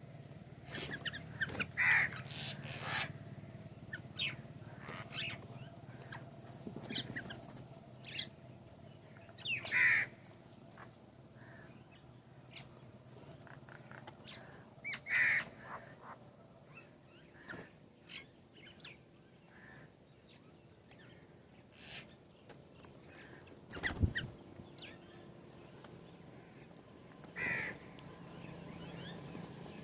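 Birds calling. A louder harsh call comes back every several seconds, with short, fainter calls in between. About 24 s in there is a single sharp knock.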